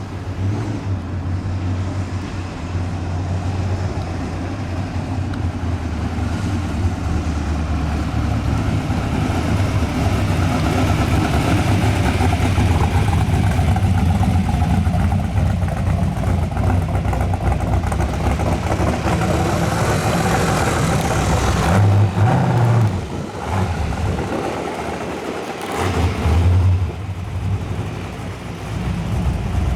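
Car engines running close by. The noise builds steadily to a peak about twenty seconds in, then drops off suddenly, followed by a couple of short surges like brief revs.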